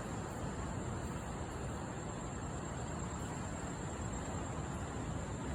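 Steady, even rushing noise with no separate events: the outdoor background of a beachfront at night.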